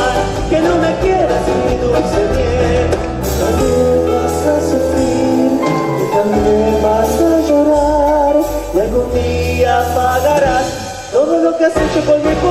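A band playing a Latin American popular song with a sung melody over a steady bass line; the music dips briefly near the end and picks up again.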